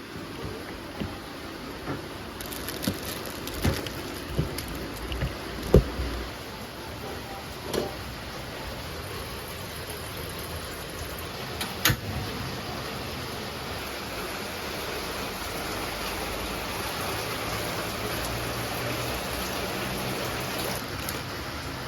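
Steady rain falling, with scattered louder drips or knocks in the first half.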